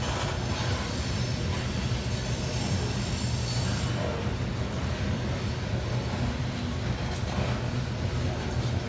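Freight train of coal hopper cars rolling past, a steady low noise of steel wheels running over the rails.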